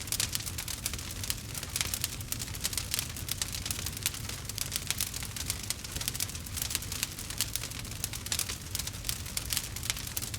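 Campfire crackling: a dense, unbroken stream of sharp pops and snaps over a steady low rumble.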